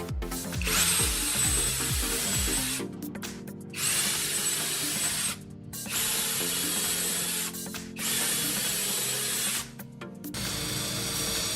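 A power tool running in about five short runs of one to two seconds each, with a high whine, stopping briefly between runs. Background music plays underneath.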